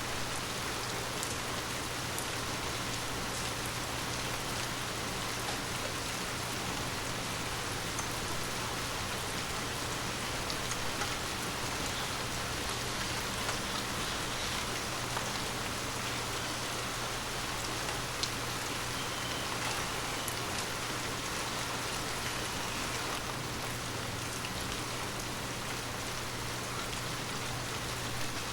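Steady rain falling on forest leaves: an even hiss with scattered ticks of single drops striking leaves.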